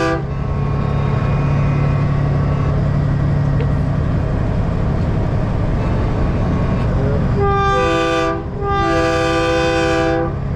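Diesel semi-truck engine running with a steady low hum, then a truck-mounted multi-tone train horn sounds two blasts, a short one and a longer one, about seven and a half seconds in.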